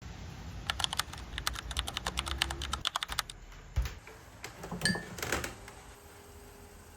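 A quick run of light, sharp clicks, several a second, for about three seconds, then a single dull thump and a few more clicks, one with a short ringing tone.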